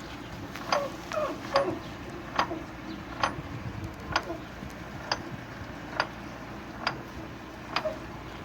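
1989 Odra hose-reel irrigator with water-turbine drive, its mechanism ticking regularly, a little under once a second, over a steady hiss of running water.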